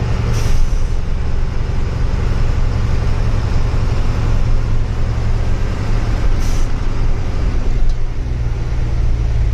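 Truck engine and road noise heard while driving: a steady low drone under tyre and road rumble, with two short hisses, one near the start and one about six and a half seconds in.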